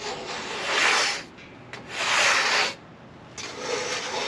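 Three long swishing strokes, about a second each, of a brush or broom sweeping sawdust off a freshly sawn white oak slab.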